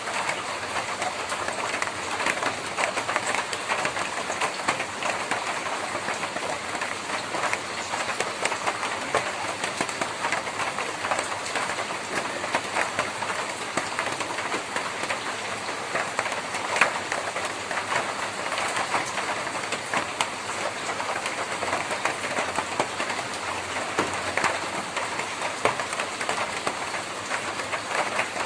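Steady rain on a tin roof: a dense, even patter of countless drops striking the metal sheets, with a few louder single drops now and then.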